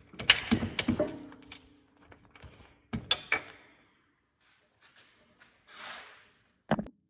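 Metal clinks and knocks of a socket and wrench working on a car's lower control arm bolts: a quick run of them in the first second and a half, a few more around three seconds in, then one heavier knock near the end.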